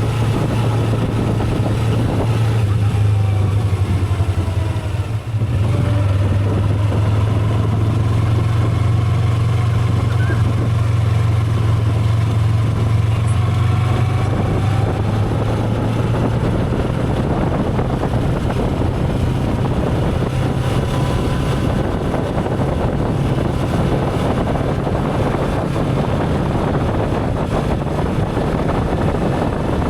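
Motorcycle engine running steadily while riding, under a constant rush of wind and road noise; the engine eases off briefly about five seconds in.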